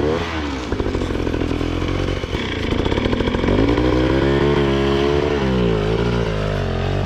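Dirt bike engine running under changing throttle, its pitch rising and falling several times as it revs up and eases off.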